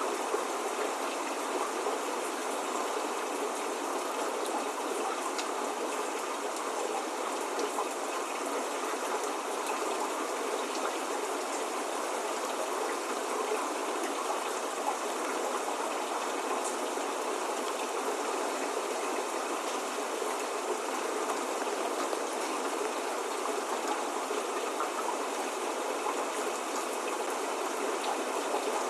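Steady spring rain falling, an even hiss with faint scattered drop ticks and no thunder.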